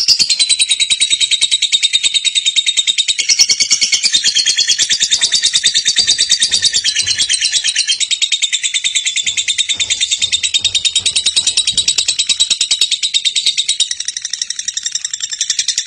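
Lovebird giving a long, unbroken ngekek: a rapid, high-pitched chattering trill that runs on without a pause.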